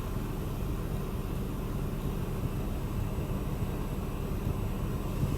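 Steady low machinery hum heard from inside a car's cabin in a D&S 5000 rollover car wash, with no spray hitting the car.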